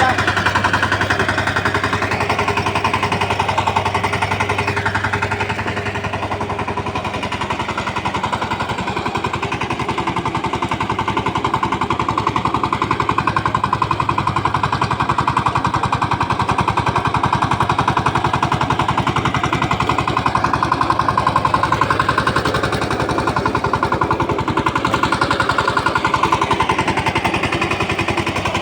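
Diesel engine of a VST tractor running steadily with a rapid, even chugging.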